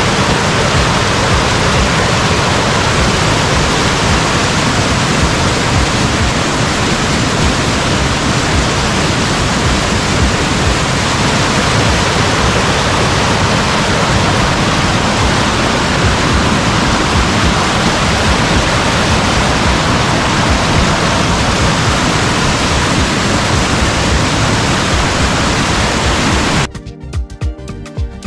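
Steady loud rushing of a river in flood, swollen by days of heavy rain. Near the end the water sound cuts off suddenly and music with a beat comes in.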